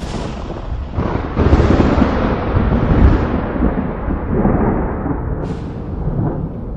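Thunder during a lightning storm: a sharp clap at the start swells into a loud, deep roll about a second and a half in, and this keeps rolling for several seconds before easing near the end.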